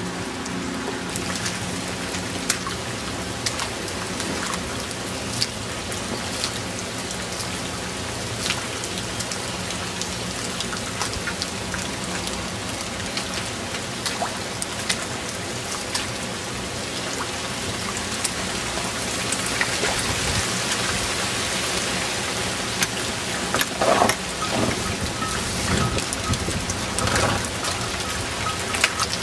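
Steady hurricane rain falling, with many sharp drops pattering close to the microphone. It grows heavier about two-thirds of the way through, and a few louder irregular knocks come near the end.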